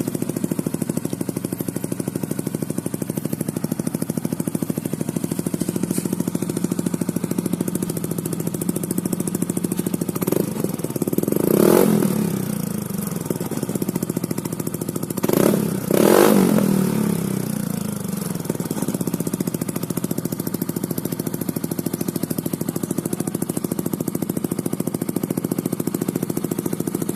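Yamaha NMAX scooter's single-cylinder engine idling through an Akrapovic aftermarket exhaust, blipped twice, about 11 and 16 seconds in, with the revs rising and dropping back to idle.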